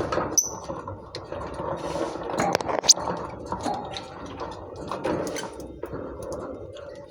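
Pet lovebirds chirping and chattering. Rapid scratchy twitters and clicks run throughout, with a few sharp high chirps: one shortly after the start and a piercing rising one about three seconds in.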